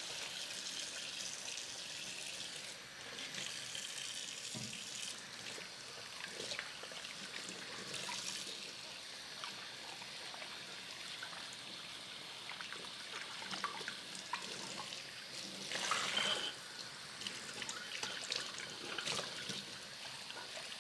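Water running from a tap into a sink in a steady trickle, with occasional light knocks and splashes.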